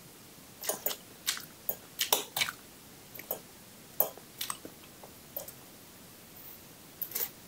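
Close-up eating sounds: a person chewing fried instant noodles and egg, with short, sharp clicks and taps at irregular intervals from the mouth and from the fork and spoon on the bowl.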